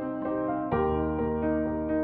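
Slow, gentle piano music of single notes struck one after another, with a deeper chord entering about two-thirds of a second in.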